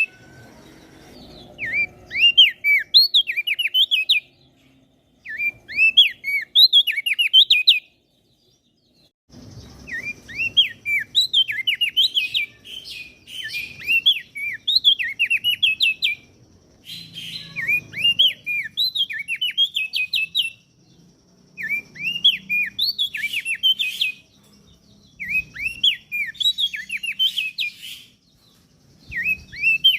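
A songbird singing in repeated bursts of quick, high, downward-swept chirping notes. Each burst lasts two to three seconds, with short pauses between them.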